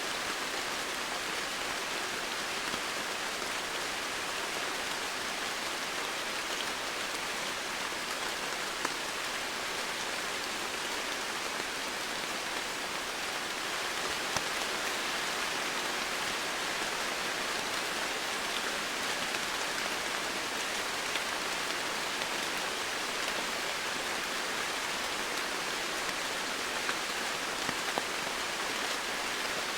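Steady rain falling: an even hiss with small scattered drop ticks.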